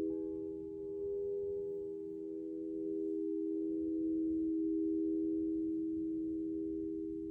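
Alchemical crystal singing bowls ringing with several pure, steady tones at once, the sound slowly swelling and easing. A fainter, higher tone joins just after the start.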